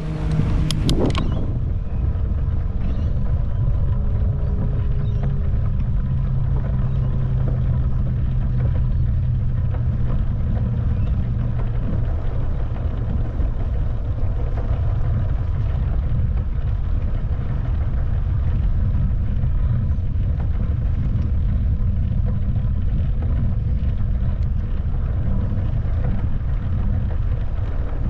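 Wind buffeting the microphone of a moving bicycle, a steady low rushing, with a low steady drone through the first half and a few sharp clicks about a second in.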